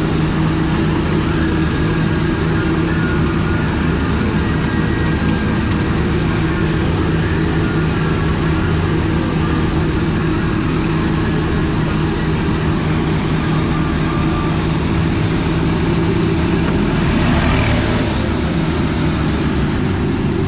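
Casey Jr. Circus Train ride train running steadily, a continuous drone with a low steady hum, and a short rush of noise near the end.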